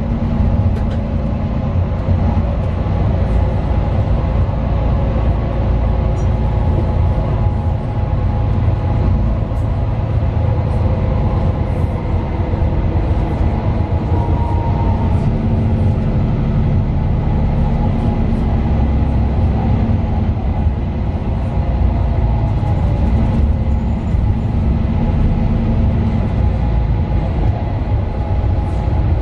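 Mercedes-Benz Citaro 2 city bus under way, heard from inside the passenger cabin: the steady, loud rumble of its OM 936 LA six-cylinder diesel together with road and body noise, its engine note rising and falling with the driving.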